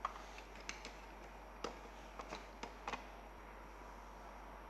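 Small objects being handled: a handful of faint, sharp clicks and taps, scattered over the first three seconds, against low room noise.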